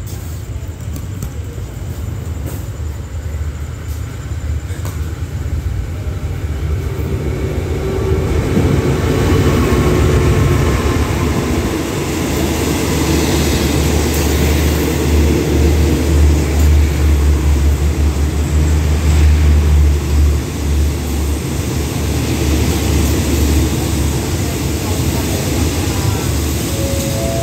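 Diesel-hauled passenger express train pulling into a station: the locomotive's low engine rumble grows louder about eight seconds in, then the coaches roll past on the rails as the train comes in to stop.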